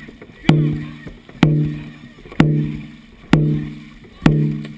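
Dragon boat drum beaten at a steady pace of about one stroke a second, five strokes in all, each a sharp hit with a ringing pitched tone that fades before the next, setting the paddling rhythm.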